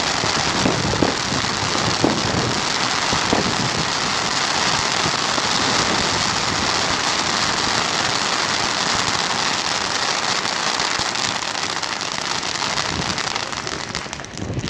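Fireworks crackling and hissing in a dense, steady stream, with a few sharper pops in the first few seconds, dying away near the end.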